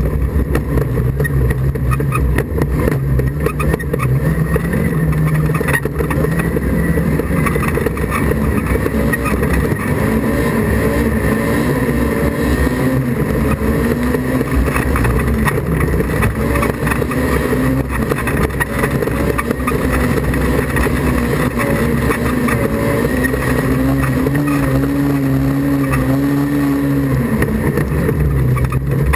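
Autograss car's engine running steadily, heard from inside the car over a loud rumble, its revs wavering and climbing for a few seconds near the end before dropping away.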